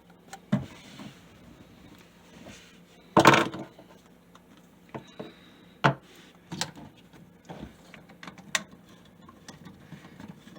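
Sink drain pipe parts being handled and lined up: scattered clicks and knocks, with one louder scraping clatter about three seconds in.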